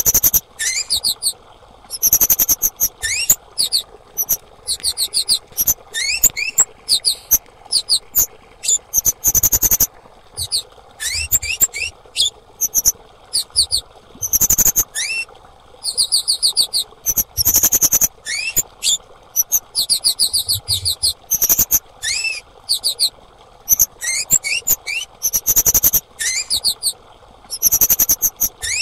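Female kemade songbird calling: bursts of rapid, high chirps, many sweeping upward, repeated every second or two.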